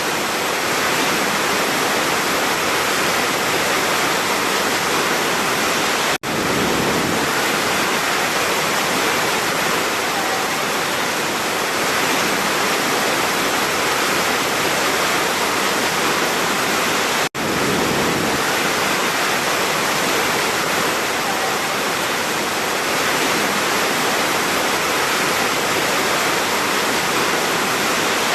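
Large waterfall pouring: a steady, dense rush of falling water. The sound cuts out for an instant about six seconds in and again around seventeen seconds, where the recording is spliced.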